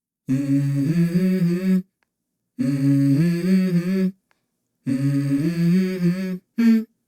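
A low voice humming the same short tune three times, its notes stepping upward, with pauses of about a second between the phrases and a brief fragment near the end.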